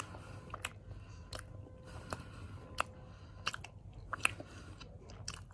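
A person chewing a mouthful of khubz flatbread dipped in cauliflower gravy: faint mouth sounds with scattered small clicks.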